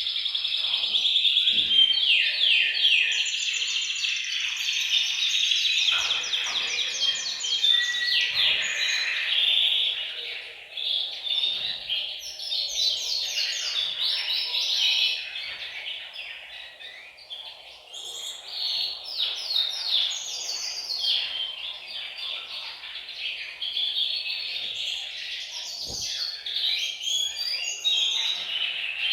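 Several male canaries singing together in overlapping fast trills and rolls, loudest in the first half.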